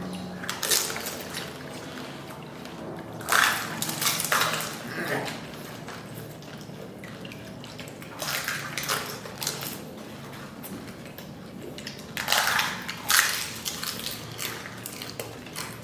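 Pani puri being eaten: crisp puri shells crunching and the spiced water slurping and sloshing, with plates and utensils clinking, in short irregular bursts every second or few.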